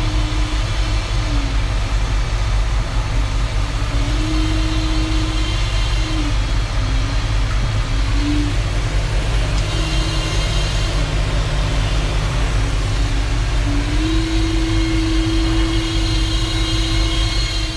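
Heavy diesel engine running with a deep rumble, its revs stepping up and down several times and held higher near the end.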